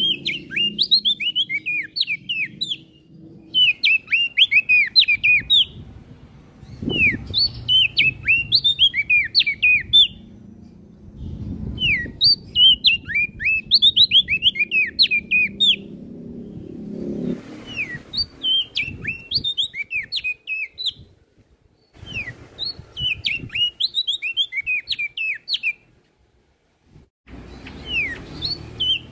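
Prenjak daun songbird singing: phrases of quick, high chirping notes, each two to three seconds long, repeated with short pauses over a low background rumble.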